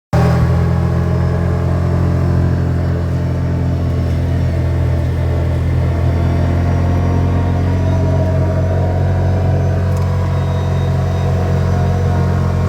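ATV engine running at a steady speed, a constant low drone with no revving.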